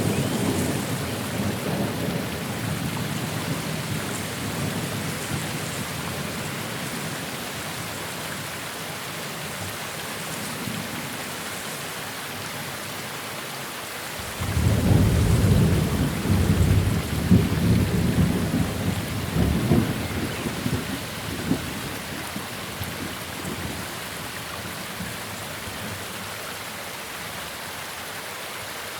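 Steady rain hissing, with rolling thunder: a rumble dies away over the first few seconds, then a new peal breaks suddenly about halfway through and rolls for several seconds before fading.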